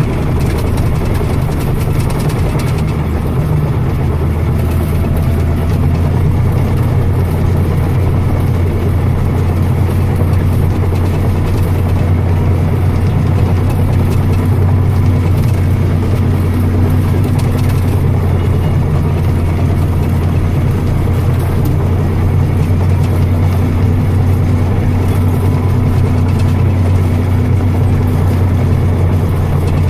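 Tractor's diesel engine running at a steady speed, an even low hum with no change in pitch.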